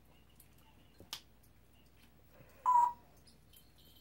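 A pet parrot gives one short, beep-like whistled note about two-thirds of the way in. A light click comes about a second in.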